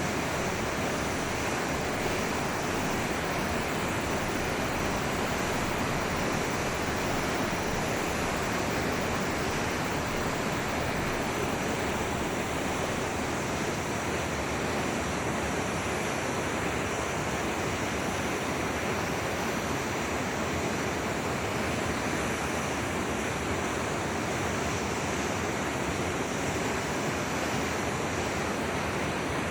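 Forest river water flowing, a steady, even rushing with no breaks or distinct events.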